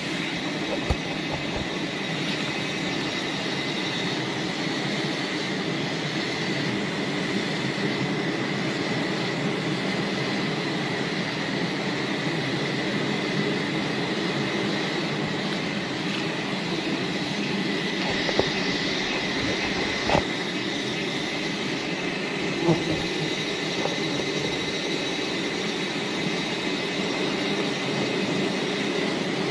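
Steady, dense buzzing drone of a large swarm of wild bees around their hive, with a steady high whine above it and a few short knocks.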